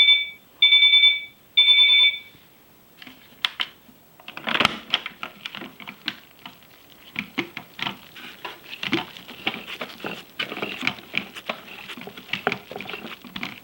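Toy Miele washing machine beeping three times, short and loud, with the end-of-programme signal. This is followed by scattered light clicks and rustling as the machine is handled.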